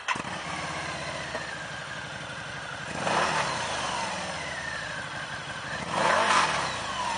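2006 Harley-Davidson V-Rod Street Rod's 1250cc liquid-cooled V-twin catching just after a start, settling into idle, and revved twice, about three and six seconds in, with the pitch rising and falling each time.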